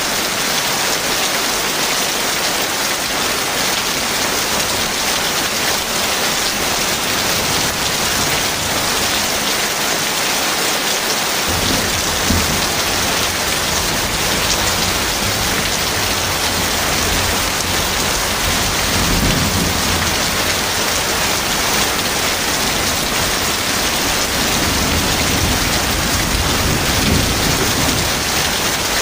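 Heavy rain falling steadily. Low thunder rumbles in about a third of the way through and carries on to the end, swelling a few times.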